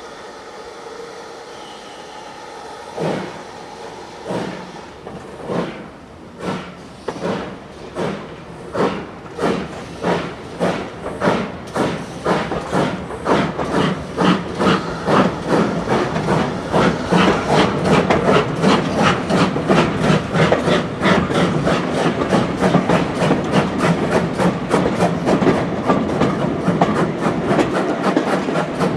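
Train starting off and gathering speed. A rhythmic beat starts slowly, about one every second and a half, then quickens and grows louder until it comes several times a second over a steady low rumble.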